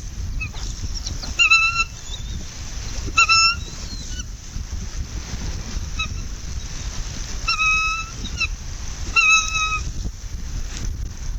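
Four short, flat-pitched bird calls, two close together early on and two more later, over a steady low rumble of wind on the microphone.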